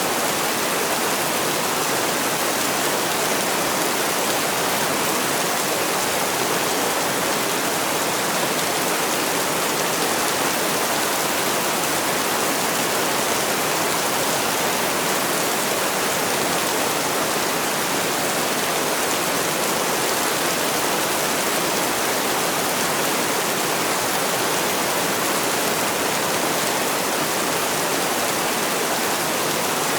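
Heavy rain falling as a steady, even hiss of water, with no separate drops, thunder or music standing out.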